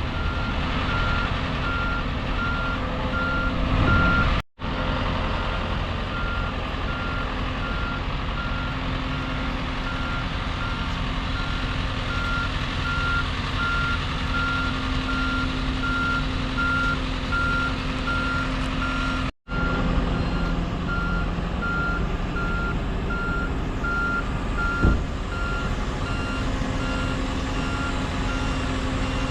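Backup alarm of heavy boatyard lifting machinery beeping at an even pace over its diesel engine running steadily. The sound drops out abruptly twice, about four and a half seconds in and about twenty seconds in.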